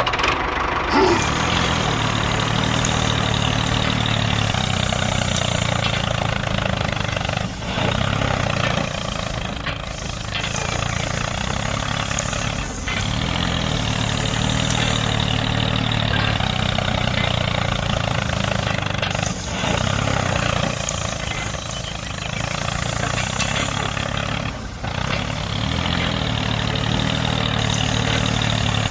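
Engine sound of a heavy machine, like a tractor or bulldozer diesel, running steadily, with short breaks about every five to six seconds where it briefly drops and starts over.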